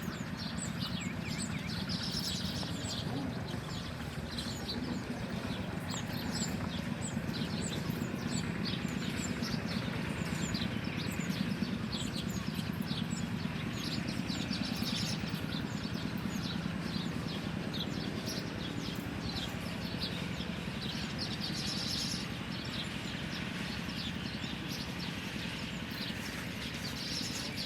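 Many small birds chirping continuously, a dense stream of short high chirps, over a steady low hum.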